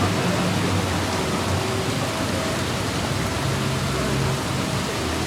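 Steady cabin noise of a moving car: an even road and tyre rush with a low engine hum underneath that shifts slightly.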